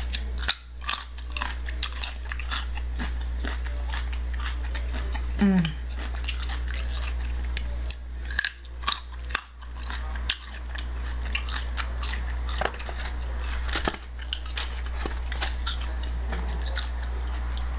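A person biting and chewing crisp raw carrot sticks close to the microphone: repeated sharp crunches and wet chewing over a steady low hum, with a short voiced sound about five seconds in.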